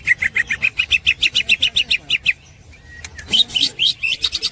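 Green leafbird (cucak ijo) singing its rapid chattering 'ngekek' song: fast runs of short repeated notes, about eight a second. It breaks off for a moment past the middle, then resumes on higher notes.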